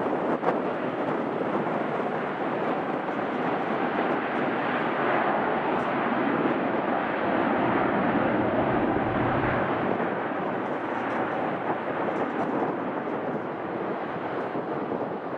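Jet airliner engine noise: a steady rush that swells to its loudest about eight to nine seconds in, then slowly eases.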